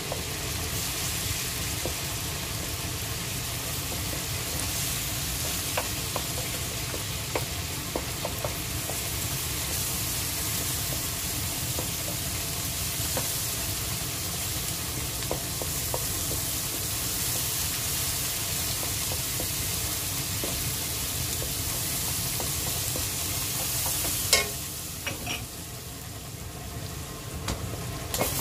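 Chili flakes and garlic sizzling in oil in a nonstick wok, stirred with a wooden spoon, with small scattered clicks of the spoon against the pan. About four seconds before the end there is a sharp knock, after which the sizzling is quieter.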